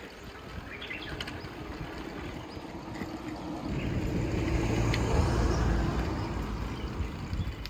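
A motor vehicle passing, its engine hum and running noise swelling to a peak a little past the middle and then fading.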